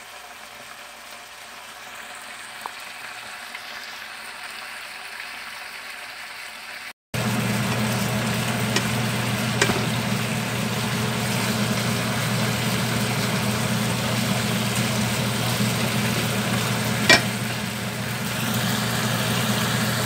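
Chicken thigh pieces sizzling in a wok, faint at first. After a cut about seven seconds in, they sizzle louder in a soy-and-oyster-sauce teriyaki glaze while being turned with tongs, over a steady low hum, with two sharp clicks of the tongs against the pan.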